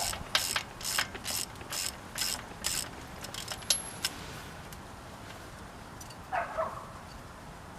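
Ratchet wrench clicking in quick back-and-forth strokes, about two a second, loosening a spark plug from a VW Type 4 engine. The strokes stop about three seconds in, followed by a sharp click and, later, a short scrape.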